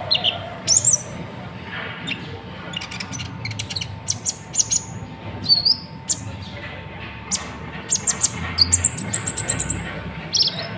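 Brown-throated sunbird (kolibri ninja, 'konin') singing: sharp, high chirps and short sliding squeaks in quick bursts, with a fast trill of high notes near the end.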